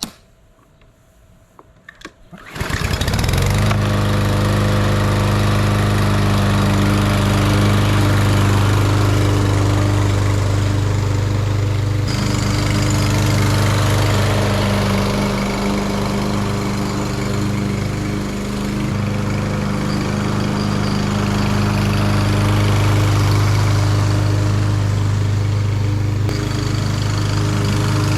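Briggs & Stratton engine of a Troy-Bilt TB230 walk-behind lawn mower, starting about two and a half seconds in and then running steadily as it cuts thick Zoysia grass. Its note wavers briefly about two-thirds of the way through.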